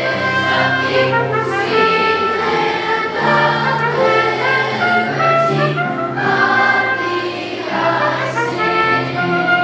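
A children's school choir singing a song over instrumental accompaniment, with many voices holding notes together.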